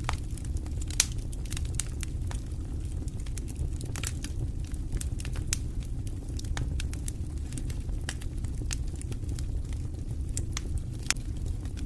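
Wood fire in a fireplace crackling, with frequent irregular sharp pops over a steady low rumble of the flames; a louder pop about a second in and another near the end.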